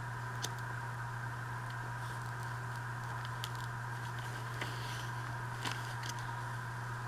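A few light clicks and taps of paper and envelope being handled and pressed down while gluing, over a steady background hum.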